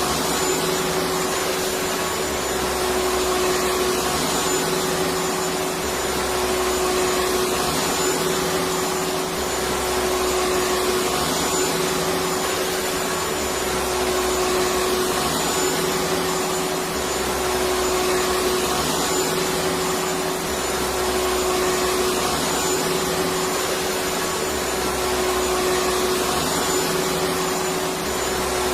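Vacuum cleaner running steadily: a continuous rushing noise with a steady motor hum, and a low pulse recurring about every two and a half seconds.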